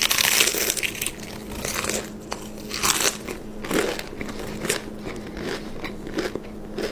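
A loud crunching bite into crispy food, then chewing with repeated crunches, close to the microphone.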